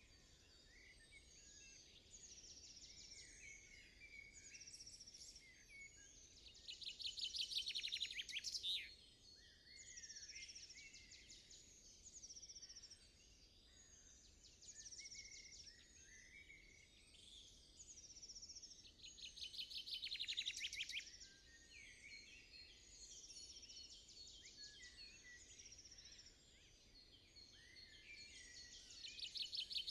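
Forest songbirds singing and calling, with many thin high chirps throughout. Three times, about every ten seconds, a louder song of rapidly repeated notes stands out.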